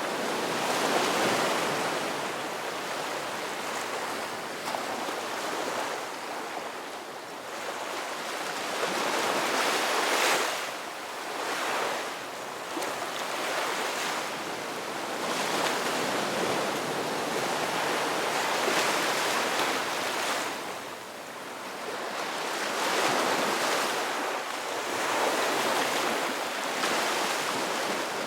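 Ocean waves breaking and washing in, a continuous rushing surf that swells and eases every few seconds.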